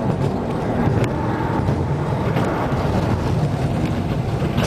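Steady engine rumble of a running vehicle, even throughout with no clear breaks.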